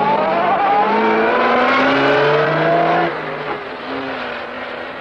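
Open-top sports car's engine accelerating hard, its revs climbing and then dropping back with each upshift through the gears. About three seconds in it falls away to a quieter, steadier running note as the car pulls off.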